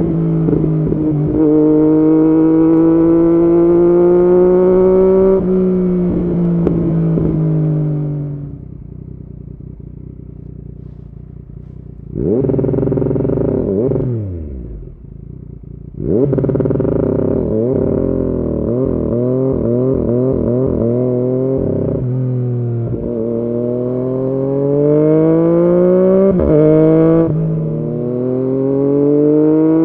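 2016 Yamaha MT-09's inline three-cylinder engine through an Arrow aftermarket exhaust, revving up under load with the pitch dropping at each gear change. About eight seconds in it falls to a low off-throttle run, gives one short rev that falls away, then pulls up through the revs again.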